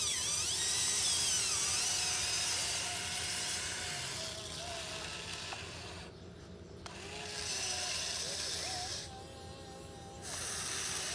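Radio-controlled excavator's small electric motors whining as it digs, the pitch gliding up and down as the arm and bucket move. The whine stops briefly about six seconds in and again about nine seconds in.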